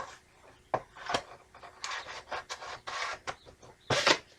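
Plastic VHS cassette and its case being handled: scattered light clicks and rustles, with a louder clatter about four seconds in.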